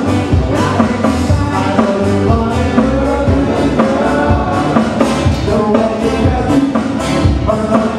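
Live Hawaiian band music playing a song with a steady beat.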